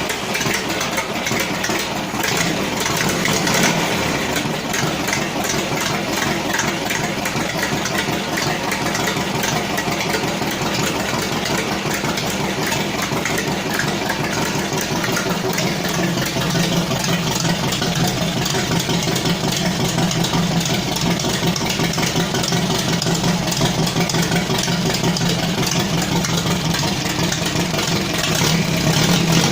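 Engine fitted with a carburettor from a 150 cc engine, running steadily just after starting, with a fast, even pulse; it runs a little stronger from about halfway through.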